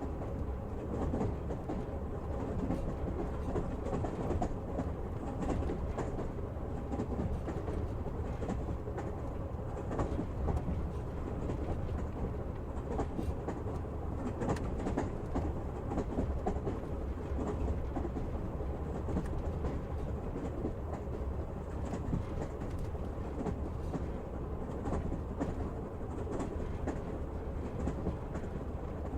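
Passenger train running along the track, a steady rumble with the clatter of the wheels over the rail joints, heard from inside the carriage.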